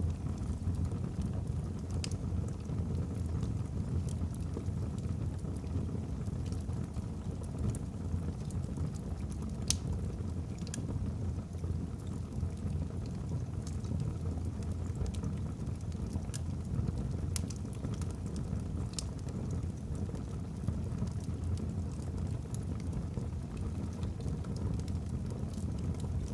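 Wood fire burning in a fireplace: a steady low rumble of flames with sharp crackles and pops from the burning logs at irregular moments.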